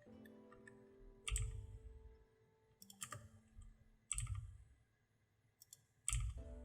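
Clicks of a computer mouse and keyboard during desktop work: four louder clicks at uneven gaps, with fainter ticks between.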